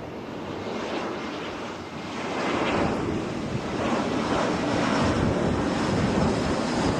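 Jet airliner engine noise swelling as an aircraft comes in to land, growing louder about two seconds in and holding, with wind buffeting the microphone.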